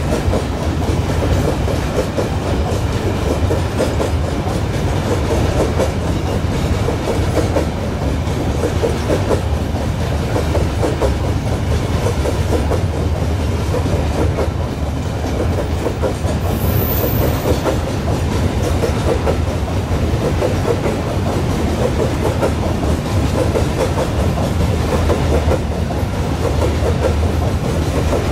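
Long Babaranjang coal train's steel hopper wagons rolling past at a steady pace, their wheels rumbling and clattering on the rails.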